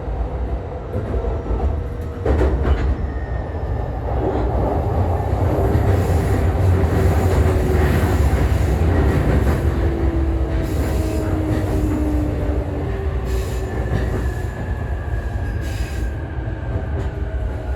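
E531-series electric train slowing into a station: the motors' inverter whine slowly falls in pitch over a steady wheel-and-track rumble, with a few sharp rail-joint knocks, the strongest about 2 s in.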